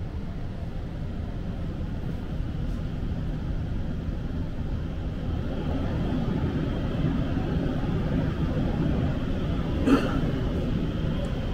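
Seibu New Red Arrow limited express train running, heard inside the passenger car as a steady low rumble that grows somewhat louder, with a single short knock about ten seconds in.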